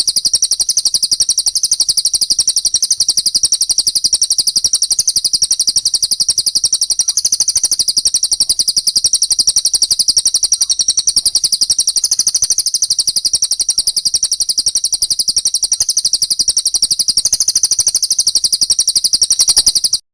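Recorded small songbird chattering: a fast, unbroken run of high, sharp chirps that cuts off suddenly at the end.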